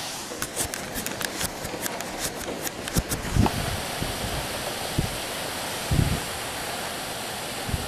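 Heavy rain pouring down in a steady hiss outside an open window. A quick run of sharp ticks comes in the first three seconds, and a few low thumps come later.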